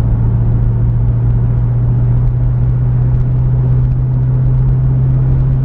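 Pontiac Firebird's engine droning steadily at cruising speed, with road rumble, heard from inside the car.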